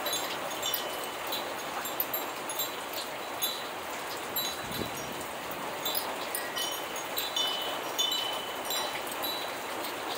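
Steady rain falling, with the scattered high ringing notes of a wind chime coming and going throughout, most of them about three-quarters of the way in.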